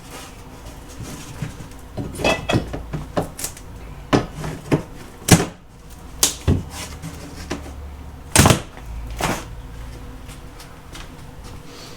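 Old wall paneling and trim strips being pried and pulled off a wall by hand: a string of irregular knocks, cracks and scrapes of wood, the sharpest about halfway through.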